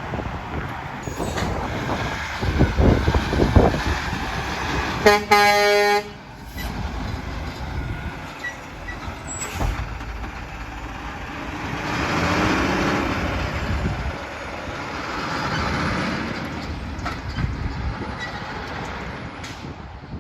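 Heavy trucks passing on a road, with one truck air horn blast about a second long, about five seconds in, that cuts off sharply. More traffic swells and fades by afterwards.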